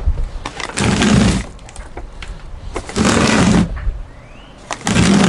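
Three bursts of scraping and rustling, about a second apart, from the cardboard-wrapped firework cake being handled and turned.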